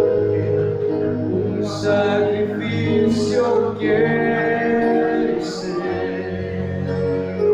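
A slow worship song, voices singing long held notes over instrumental backing.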